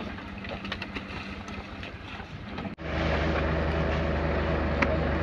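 Heavy truck engine running steadily. About three seconds in, the sound cuts abruptly to a louder, deeper engine drone.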